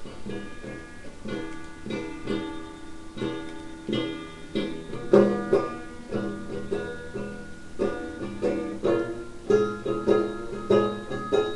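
Instrumental intro on a plucked string instrument, picked notes ringing in a steady rhythm, with no singing.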